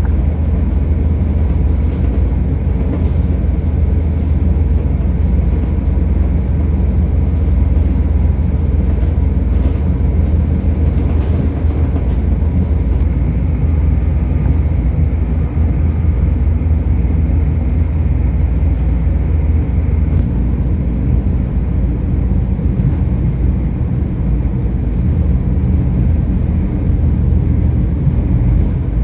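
A moving train running steadily, giving a continuous low rumble.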